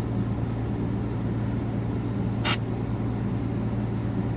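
Semi-truck's engine running steadily under way, heard from inside the cab as a low, even drone. One short, sharp high click about two and a half seconds in.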